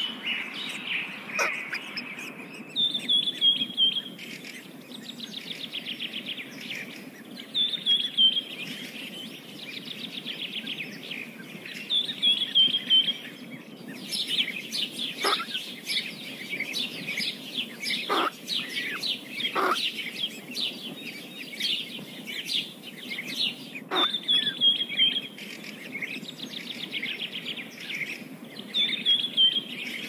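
Bird chirping: a short, falling chirped phrase repeats about every four to five seconds, with fast twittering trills between and a few sharp clicks in the middle stretch.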